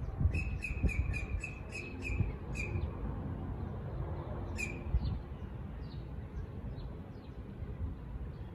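A bird calling: a quick series of about eight sharp chirps in the first two and a half seconds, then a single chirp about four and a half seconds in, over a steady low outdoor rumble.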